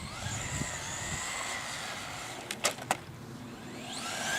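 Electric 1:10 RC car motor whining, its pitch sliding down over the first second and a half and rising again near the end as it speeds up. Three sharp clicks come about two and a half seconds in.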